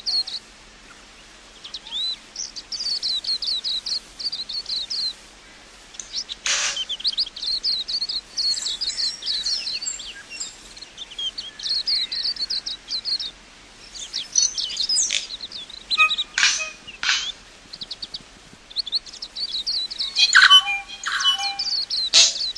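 Birdsong: repeated phrases of rapid, high chirping notes, each a couple of seconds long with short pauses between, and a few short, sharp calls cutting in around the middle and near the end.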